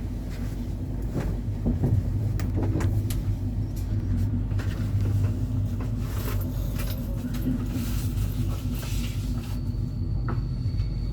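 Passenger train running, heard from inside a sleeping car: a steady low rumble with scattered knocks and rattles. A thin high whine joins near the end.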